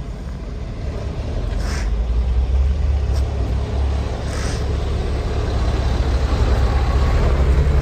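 SITRAK C7H tractor truck's diesel engine running with a steady low rumble, with a few short hisses of air.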